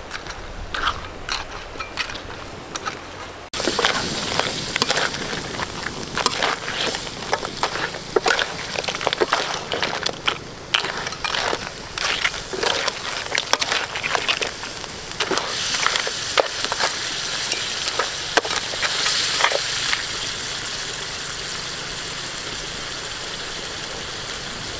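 Blue crabs in thick curry sauce sizzling and crackling in a wok, with scattered clicks of a metal spatula stirring in the first few seconds. About three and a half seconds in it suddenly becomes a louder, dense crackle with many sharp pops, which settles into a steadier sizzle near the end.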